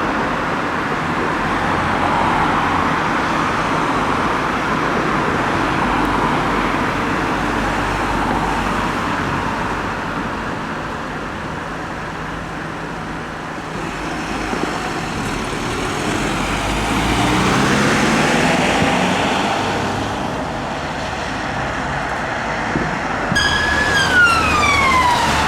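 Police vehicle siren wailing over steady road-traffic noise, with a clear downward sweep of the siren near the end.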